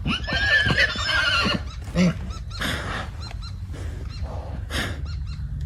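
A horse neighing: a loud, wavering whinny lasting about a second and a half, followed by a short lower sound about two seconds in.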